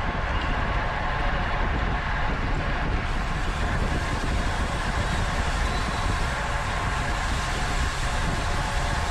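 Steady wind rush and rumble on the microphone of a camera riding along on a road bike at race speed.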